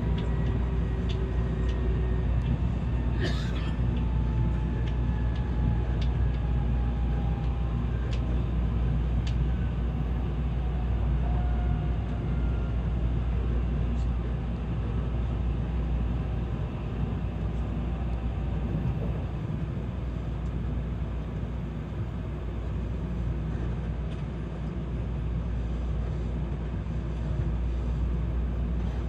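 Tokaido Shinkansen train running, heard from inside the car: a steady low rumble, with faint whining tones that glide slowly downward and a few light clicks.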